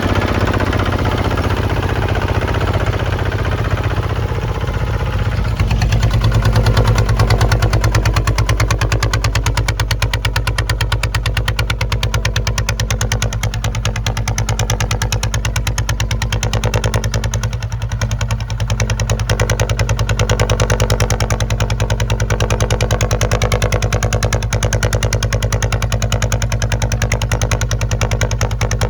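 Single-cylinder diesel engine of a Kubota ZT155 two-wheel tractor running steadily with a fast, even chug. It gets a little louder about six seconds in and eases briefly about two-thirds of the way through.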